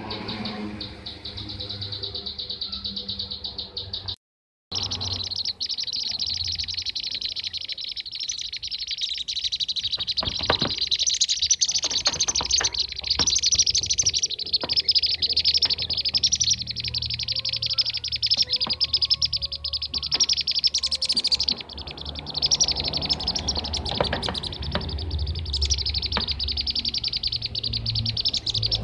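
Many bee-eaters chirping, a dense run of fast, overlapping calls with no gaps between them. The sound drops out completely for about half a second a little over four seconds in.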